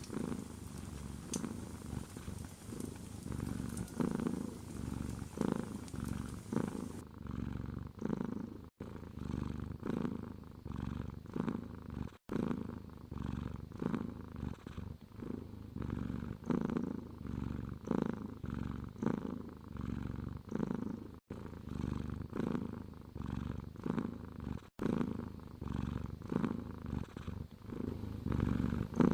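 Domestic cat purring steadily, the purr swelling and fading with each breath, broken a few times by brief dropouts.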